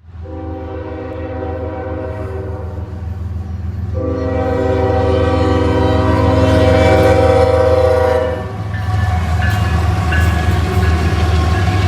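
CSX freight locomotive's air horn sounding two blasts, a shorter one and then a longer one of about four seconds, over the low rumble of the approaching train. After the horn stops, the train's engines and the wheels clicking over the rail joints carry on as it passes.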